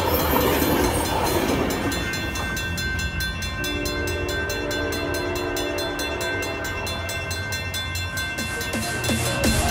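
Bilevel commuter train cars rumbling away past a grade crossing while the crossing bell rings in rapid, even strikes. A distant train horn sounds a held chord for about three seconds in the middle.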